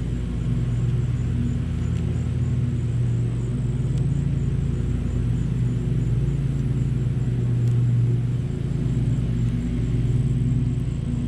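Honeybees buzzing around an open hive during an inspection: a steady, continuous low hum.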